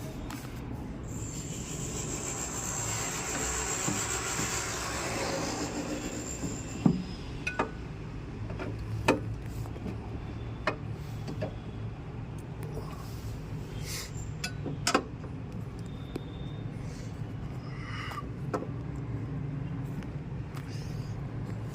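Repair handling noise: scattered sharp clicks and knocks over a steady low hum, with a hiss lasting a few seconds near the start.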